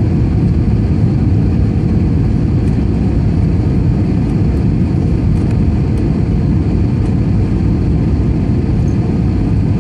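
Steady airliner cabin noise: the low, even rumble of jet engines and airflow heard from inside the plane, with a faint steady hum running through it.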